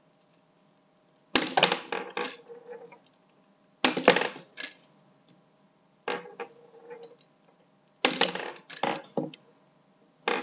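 Toy B-daman (CB-23) shooting marbles in rapid-fire mode: clusters of sharp clicks and clattering impacts as the marbles strike the bottle target and bounce, coming about every two seconds, five times.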